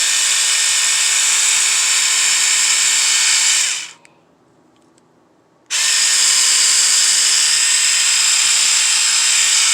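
Small electric motor of a Hizek 3-in-1 epilator running at a steady high whine, switched off about four seconds in and switched back on about two seconds later.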